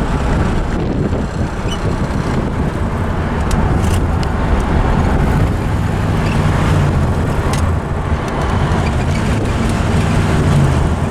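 The 1974 Corvette's swapped-in Chevy 350 small-block V8 running while the car is driven, with road noise. The engine note swells a little about six seconds in and again near the end.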